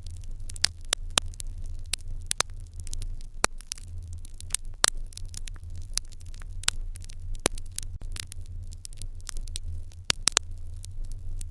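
Open wood fire crackling, with irregular sharp pops and snaps over a low steady rumble.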